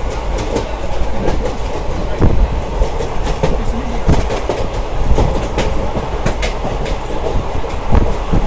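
Train running along the track, a steady low rumble with irregular clicks and knocks of the wheels over rail joints.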